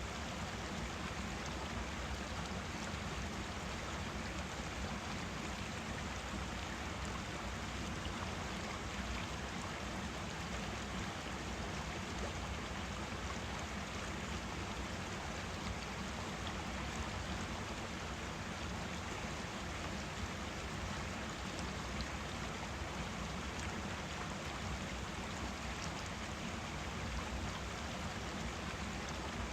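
A forest stream flowing, its water rushing and splashing in an even, steady wash.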